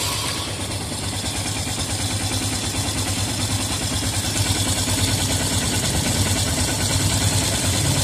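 Yamaha FZS V3's single-cylinder engine idling steadily just after starting, cylinder head cover off, with its freshly replaced timing chain. There is no cam chain rattle or ticking: the new chain and tensioner have cured the earlier tractor-like noise.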